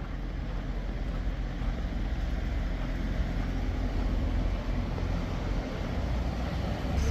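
Low, steady rumble of road traffic, a vehicle passing and growing slowly louder.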